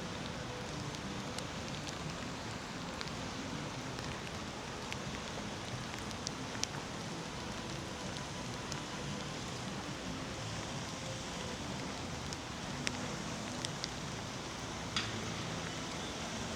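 Steady rain falling, an even hiss with scattered sharp drips tapping close by.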